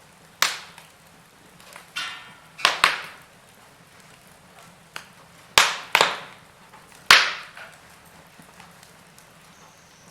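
Wood fire in a fireplace crackling: burning logs give sharp snapping pops, several loud and some in quick pairs, over a soft steady hiss.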